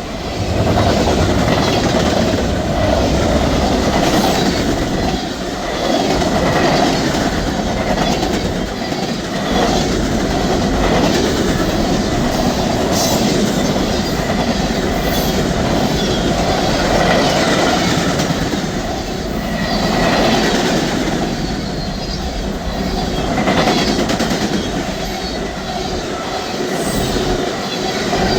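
Train rolling past at close range, its steel wheels clicking over rail joints in a steady stream, with a few brief high squeals.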